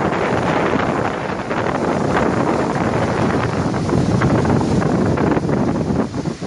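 Storm-force wind of a tropical storm buffeting the microphone, over the rush of heavy surf breaking onto the shore.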